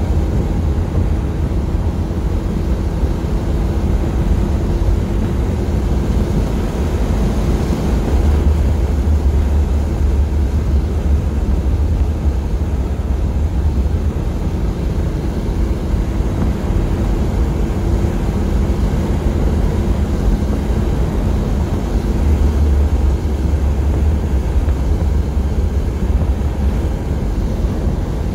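The new engine of a 1978 Corvette Stingray running as the car drives along, a steady low rumble mixed with road and wind noise, heard from inside the car. It swells louder twice, about eight and twenty-two seconds in.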